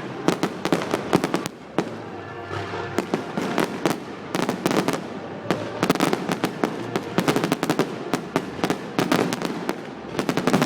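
Fireworks going off: a rapid, irregular string of bangs and crackles, thinning briefly about two seconds in, then coming thick and fast again.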